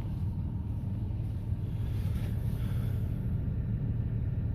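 Penske rental box truck running, a steady low engine rumble with no change in pace.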